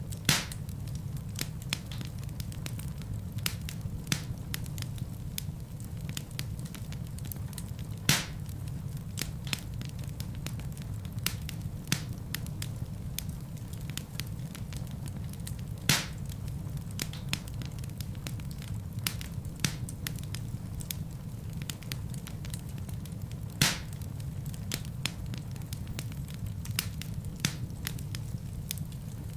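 Wood fire burning in a fireplace: a steady low rumble of flames with constant small crackles and four loud sharp pops of burning logs, evenly about eight seconds apart.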